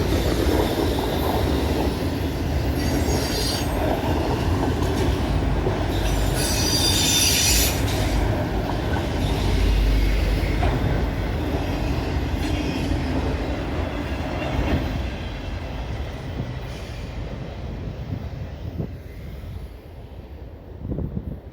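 Freight cars rolling past on the rails: a steady rumble of steel wheels with brief high-pitched wheel squeals, three of them in the first eight seconds. The sound fades over the last several seconds.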